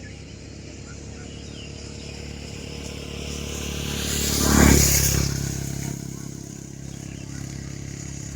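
A motor vehicle passes close by, growing louder to a peak about halfway through and then fading away, over a steady low hum.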